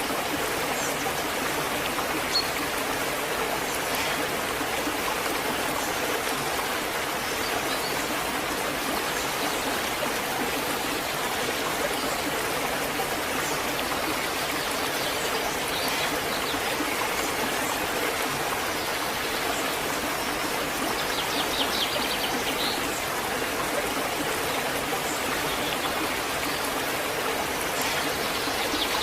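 Waterfall: steady rushing, splashing water.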